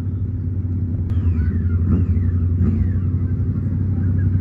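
Drag-racing motorcycle engines running: a steady low rumble, with three falling engine notes from about a second in.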